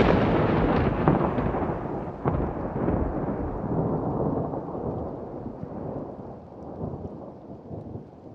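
Thunder rumbling and rolling, with sharper cracks about one and two seconds in, slowly fading away.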